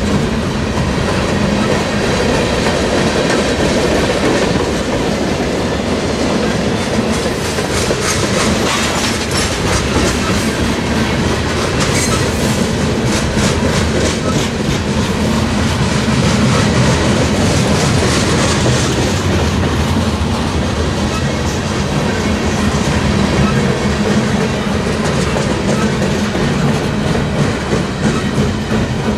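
Boxcars of a mixed manifest freight train rolling past at close range: a steady rumble of steel wheels on rail with repeated clacking as the wheels pass over rail joints.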